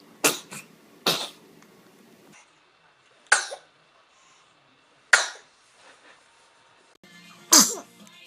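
Baby sneezes: five short, sharp sneezes, the first two close together and the rest about two seconds apart.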